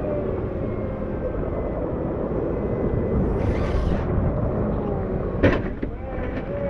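Caterpillar 908 compact wheel loader's diesel engine running under load while plowing snow with its pusher. A short hiss comes about three and a half seconds in, and a sharp metal clank about five and a half seconds in.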